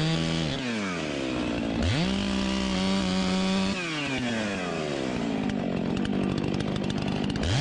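Two-stroke chainsaw engine revving: it drops back, snaps up to full throttle about two seconds in and holds there, then falls away to a low idle, and is blipped up to full revs again at the very end.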